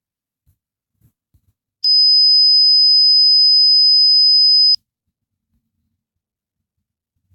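A single steady, high-pitched electronic pure tone, held for about three seconds and cutting off abruptly, with near silence before and after.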